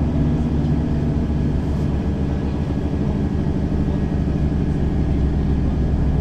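Mercedes-Benz Citaro facelift city bus engine running steadily while the bus drives, heard from inside the bus, with a deep hum.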